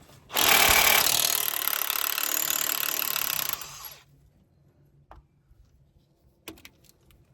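Power tool, such as a cordless impact wrench, running for about three seconds while unbolting a scraper from a Turbo-Max tillage tool. It is followed by a few light clicks.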